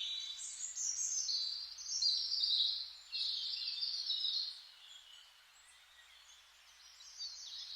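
Birds chirping and singing over a soft, steady hiss of forest ambience. The birdsong fades about halfway through and picks up again near the end.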